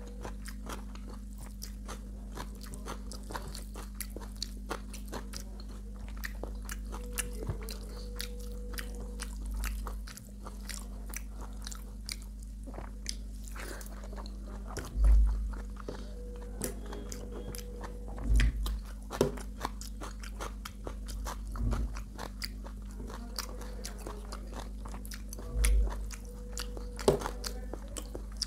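Close-miked eating: a person chewing and crunching food in a dense run of small crisp crunches and mouth clicks. A few dull low thumps come through, over a steady low hum.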